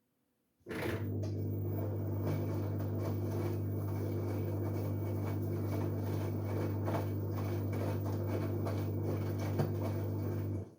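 LG Direct Drive washing machine switching on a water function: a steady electric hum with water rushing and crackling through it, starting suddenly under a second in and cutting off abruptly about ten seconds later.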